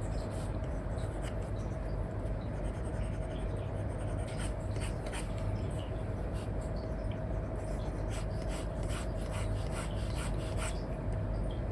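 Apple Pencil 2 with an Elecom nib scratching and tapping in short strokes on a paper-like screen film over an iPad. The strokes get busier about four seconds in, over a steady low hum.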